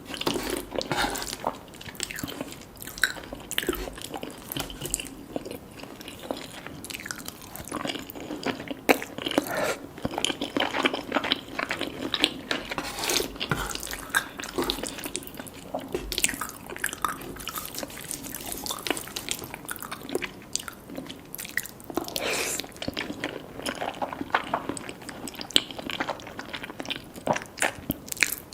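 Close-up chewing and biting of food: a dense, irregular run of small wet clicks, smacks and crunches from the mouth.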